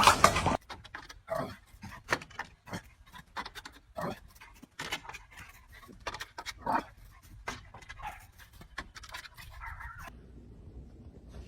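A dog panting in short, irregular breaths, stopping about ten seconds in.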